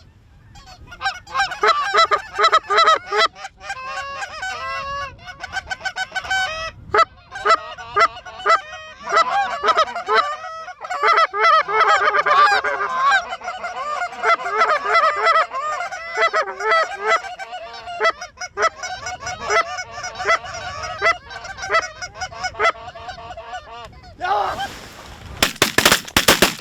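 Geese honking continuously, many short overlapping calls from a flock. Near the end there is a quick series of sharp, loud cracks.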